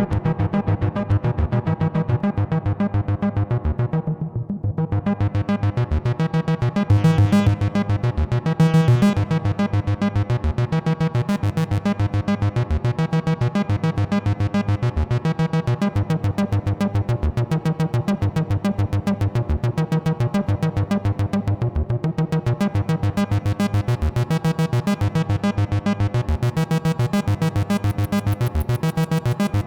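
Behringer TD-3-MO analog bass synthesizer playing a fast, even run of arpeggiated notes through effects. It gets briefly louder and brighter twice, about seven and nine seconds in.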